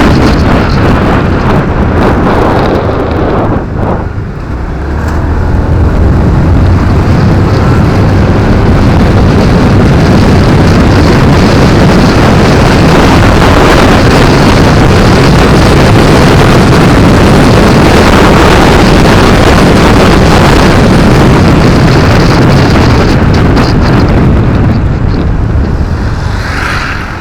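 Motorcycle ride heard through an action camera's microphone: steady, loud wind and road noise with the bike's engine running underneath. It dips briefly about four seconds in and eases off near the end.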